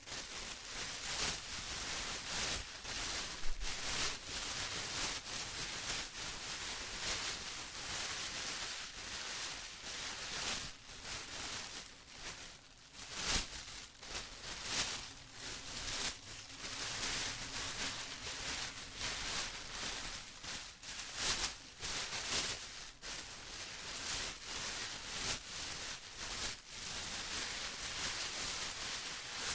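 Plastic rustling and crinkling, handled continuously in irregular crackly bursts with no steady rhythm.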